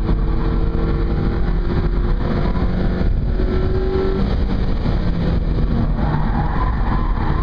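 Mazda MX-5's four-cylinder engine under hard driving on track, heard from inside the cabin with road and wind noise. The engine note shifts pitch a few times, and a higher whine comes in near the end.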